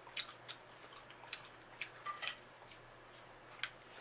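Faint, scattered clicks and cracks of snow crab leg shells being broken and picked apart by hand, about a dozen short snaps spread unevenly.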